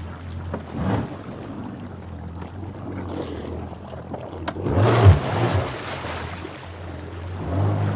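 Running water in a steady rush, under a low droning hum that swells three times, with a few sharp crackling pops.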